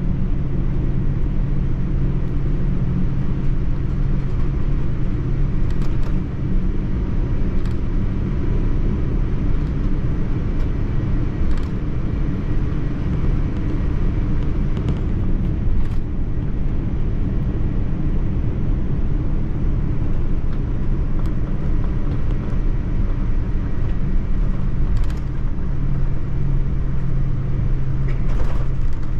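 Steady low rumble of a Boeing 787-9 airliner, heard from inside the passenger cabin, with a few faint clicks.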